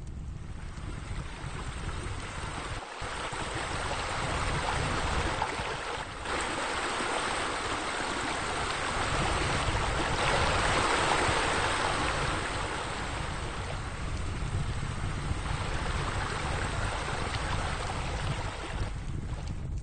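Steady rush of running water, like a pool's water feature spilling. It swells in the middle and breaks off briefly about 3 and 6 seconds in.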